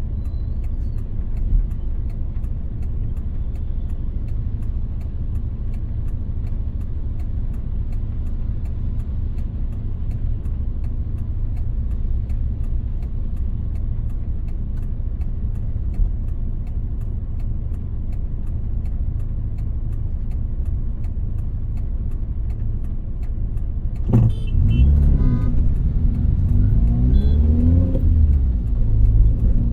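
Car driving, a steady low rumble of road and engine noise. About 24 seconds in it gets louder, with engine pitch rising and falling as it speeds up.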